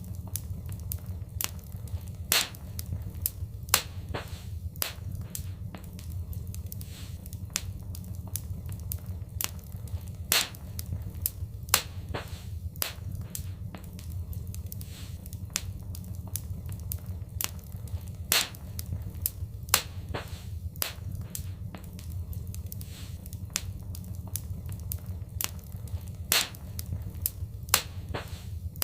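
Wood fire crackling, with frequent sharp pops and snaps, a few much louder than the rest, over a steady low rumble.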